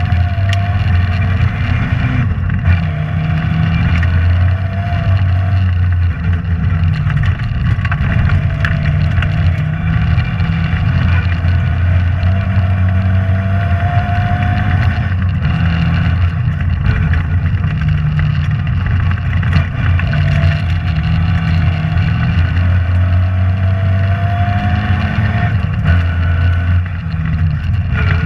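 Rally car engine heard from inside the cabin, driven hard along a stage. It is loud and steady, with its pitch climbing and dropping back several times as the car accelerates and changes gear, over constant road and body noise.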